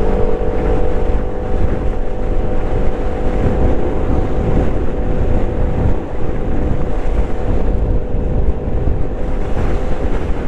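Vespa GTS 125 scooter's single-cylinder four-stroke engine running at a steady cruising speed, its even hum weakening about nine seconds in, under heavy wind buffeting on the microphone.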